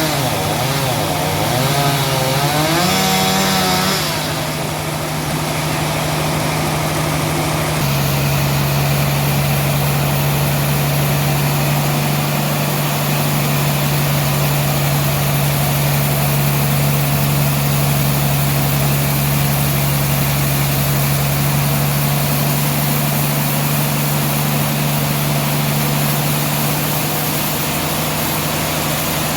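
Sawmill machinery running as a large trembesi log is sawn: a steady engine hum. Its pitch wavers for the first few seconds, then settles to an even drone.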